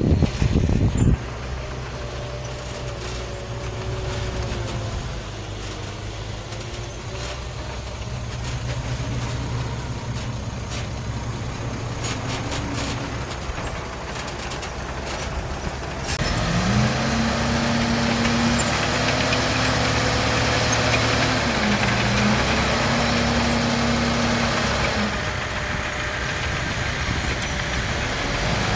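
Heavy diesel engines running, with a loud knock in the first second. About halfway through, an engine revs up louder and holds high for several seconds, dips briefly, then eases back to a lower drone.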